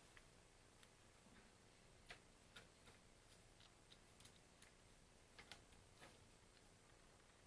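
Faint, irregular light clicks and taps of meter probes being set on the keypad contacts of a B&O BeoCom 2 phone, over a quiet room. The clicks come in a scattered run through the first six seconds or so.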